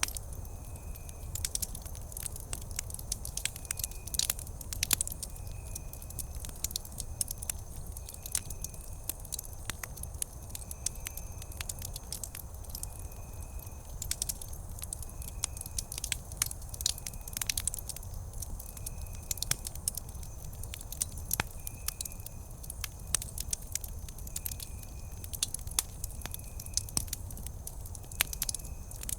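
Wood campfire crackling, with frequent sharp pops over a low steady rumble of the flames. A faint short high chirp repeats about every second and a half.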